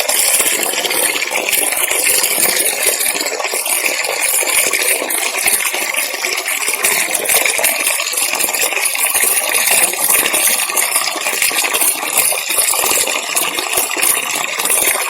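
Waterfall: a steady, hissy rush of falling water with little low rumble.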